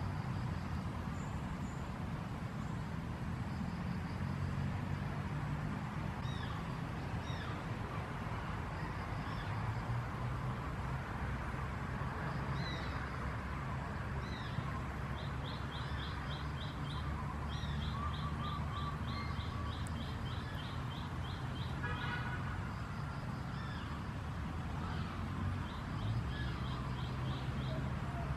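Small birds chirping, with fast runs of short repeated notes in the middle and again near the end, over a low steady rumble.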